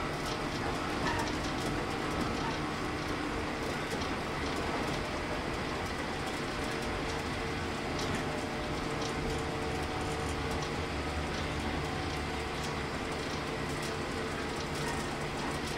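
Inside a JR 115 series 1000 subseries electric multiple unit running on the line: a steady rumble of wheels and running gear on the rails, with faint steady hum tones and occasional light clicks.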